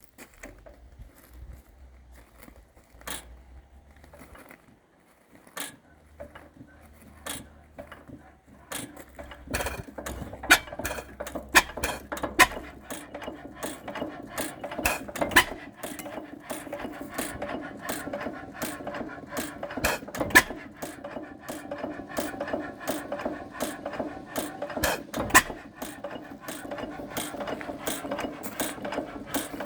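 Old hit-and-miss kerosene engine (1925 Herkules, 8 hp) being started: sparse mechanical clicks at first, then about nine seconds in a rapid, irregular clatter of valve gear and moving parts sets in, with louder knocks every second or few seconds.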